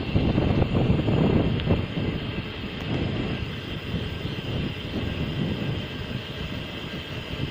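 Wind buffeting the microphone and tyre noise from a mountain bike being ridden, an uneven low rushing that swells and fades.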